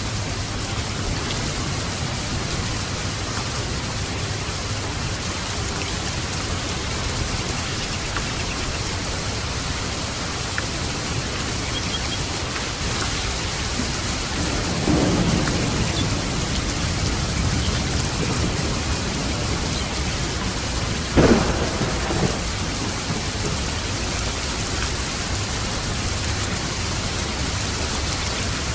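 Steady rain falling, with a low roll of thunder about halfway through and a sharper, louder thunderclap a few seconds later that rumbles briefly.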